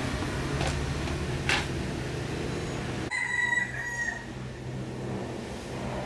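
A rooster crows once, a call of about a second starting about halfway through. Under it runs a steady low hum, with two sharp clicks in the first half.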